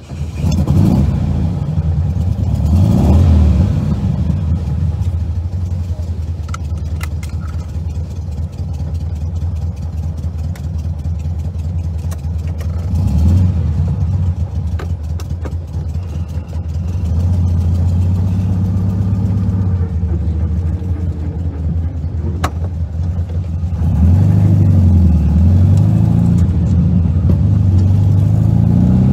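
1973 VW 1302 Super Beetle's air-cooled flat-four on dual Weber 40 PICT carburettors, heard from inside the cabin. The engine is blipped up right at the start and runs near idle with another rev about halfway through. It then pulls away under throttle, getting louder with rising revs toward the end.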